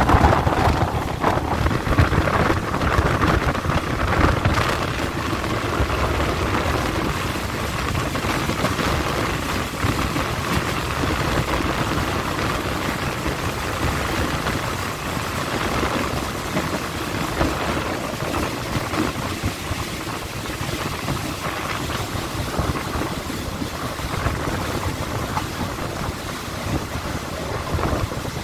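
Passenger train running on the rails, heard from a carriage doorway: steady wheel-and-rail noise with air rushing past, easing a little toward the end as the train slows into the station.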